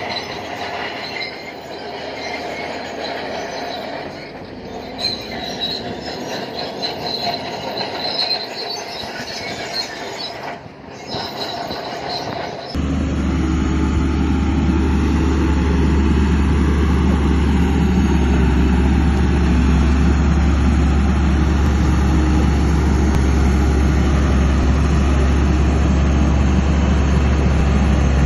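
Bulldozer at work: steel crawler tracks squealing and clanking over the engine noise. About thirteen seconds in, the sound cuts abruptly to the bulldozer's diesel engine running, a loud steady low drone.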